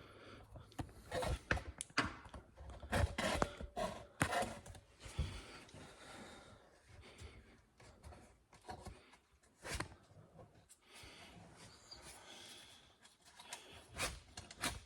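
Scattered clicks, knocks and rustles of handling, at an irregular pace, as the camera and parts are moved and handled.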